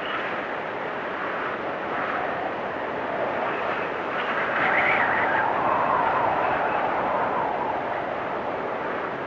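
Blizzard wind blowing steadily in gusts, with a whistling tone that swells about halfway through and then sinks to a lower moan.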